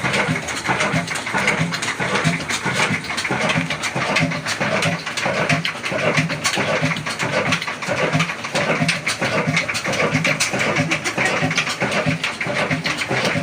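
Slow-speed desi 'Kala' oil diesel engine (30 HP, about 250 rpm) running steadily, with a slow, even beat and a mechanical clatter.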